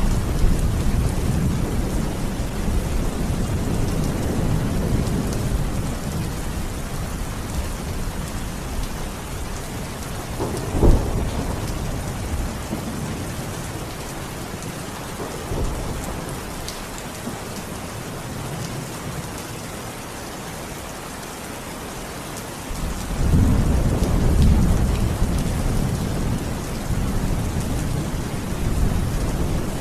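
Steady heavy rain with rolling thunder. A low rumble fades over the first few seconds, a sharper clap comes about a third of the way in, and a louder rumble swells up again near the end.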